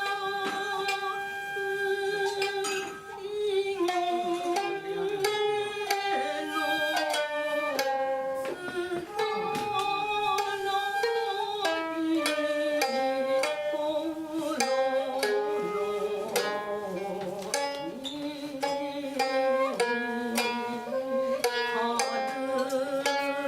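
Traditional Japanese ensemble music: a shakuhachi plays long, wavering melody notes over the rapidly plucked notes of a koto.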